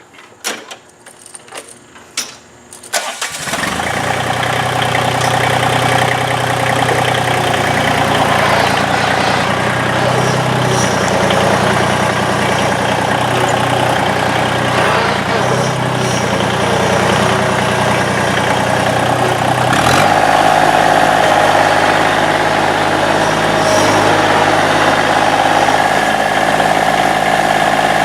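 A few knocks, then a Massey Ferguson GC1720 sub-compact tractor's three-cylinder diesel engine starts about three seconds in and runs steadily. Around twenty seconds in its note shifts and settles into a new steady sound.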